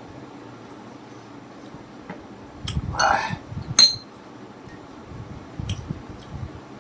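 A spoon clinking against a bowl twice, with a short slurp of soup between the clinks, and soft chewing sounds.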